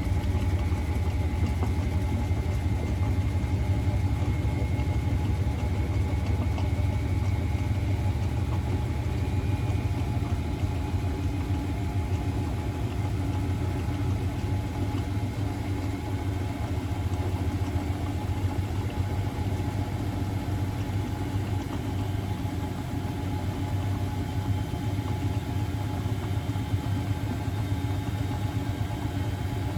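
Miele Novotronic W921 washing machine running steadily: a low motor hum and drum rumble with a faint high whine over it.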